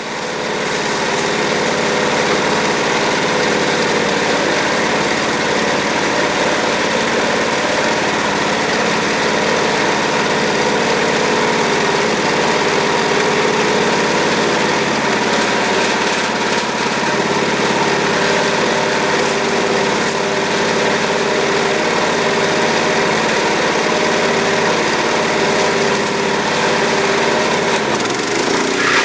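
Wood-Mizer LT15 portable band sawmill running steadily, its engine driving the band blade through the log as it saws off a plank.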